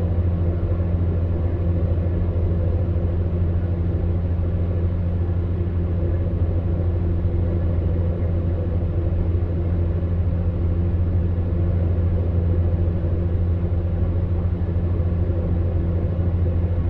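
Electric fan heater running steadily: a constant low hum with an even airy noise over it.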